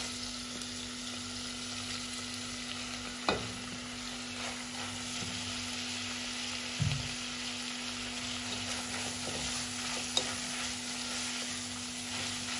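Sliced green pepper, mushrooms and chili sizzling with minced meat and onion in an oiled nonstick pot, stirred with a silicone spoon. There are three short knocks, a few seconds apart.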